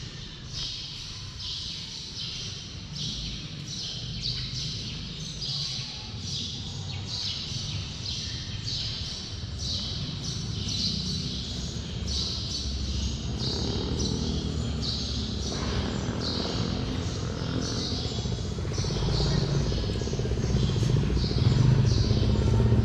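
A small bird chirping over and over, about two short high chirps a second. A low rumble of street traffic grows louder in the second half.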